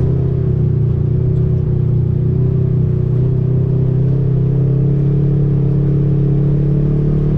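Side-by-side UTV engine running at a steady speed while driving, a loud, even drone that holds its pitch.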